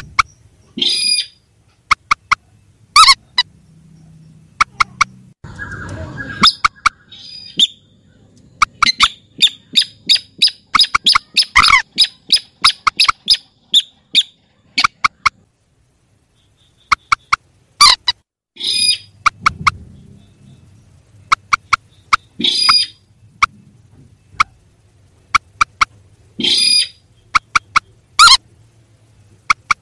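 Recorded rail calls (mandar and sintar) played as a bird lure: many sharp ticking notes, a fast run of clipped notes in the middle, and a harsh grating call every few seconds, over a faint low hum.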